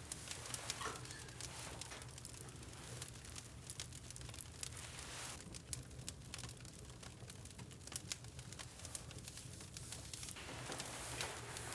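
Wood fire crackling, with scattered small sharp snaps and pops.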